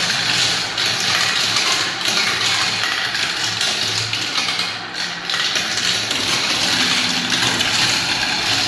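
Many marbles rolling and clattering down a spiral marble-run track in a continuous rattle, with a low hum coming and going underneath.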